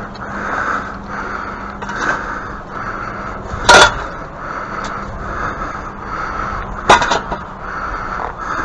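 Two sharp, loud strikes of a digging tool chopping into soil and tree roots, about three seconds apart, over a steady pulsing background.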